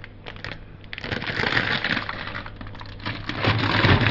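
Plastic bags and packaging crinkling and rustling as vegetables are handled, a run of small clicks and crackles that turns denser about a second in and louder near the end.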